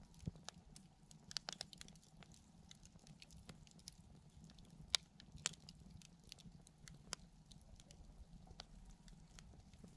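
Wood campfire crackling softly, with scattered sharp pops; the loudest come about five seconds in.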